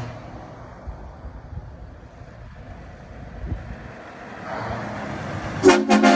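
Truck engine rumbling low and unevenly as a truck drives past. Near the end comes a short, loud burst of rapid strokes carrying a pitched tone.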